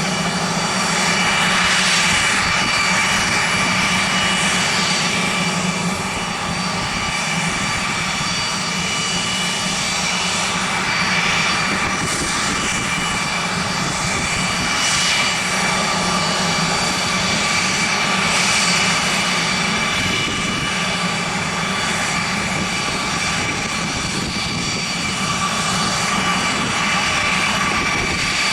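Business jet's engines running with a steady whine over a rumble, holding nearly level throughout.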